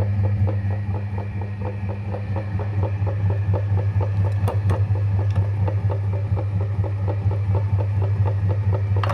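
Electric meat grinder running steadily: a constant low motor hum with a fast, even clatter as it grinds chocolate.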